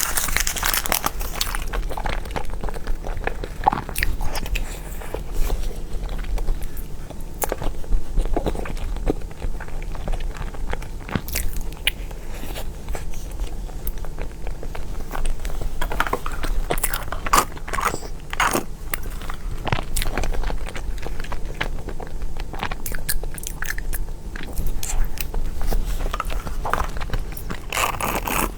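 A person biting and chewing cake close to the microphone, with irregular clicks from the bites and chews.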